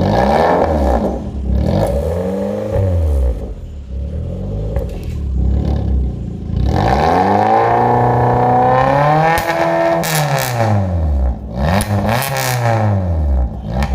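Car engine revved repeatedly through an aftermarket valvetronic exhaust: a series of quick throttle blips, each rising and falling in pitch, with one longer rev held for a couple of seconds in the middle.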